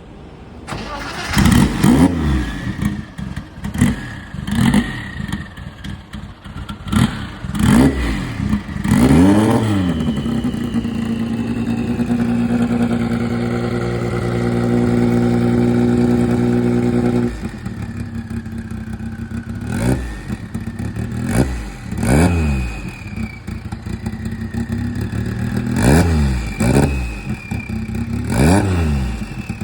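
A vehicle engine revved in a series of sharp throttle blips, each rising and falling quickly. In the middle it is held at a steady speed for about seven seconds and then drops off suddenly, before more blips follow.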